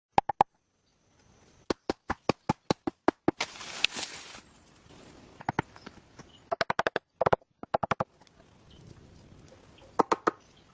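Runs of sharp knocks, several a second, as a tool strikes wood. There is a brief scraping rush about three and a half seconds in.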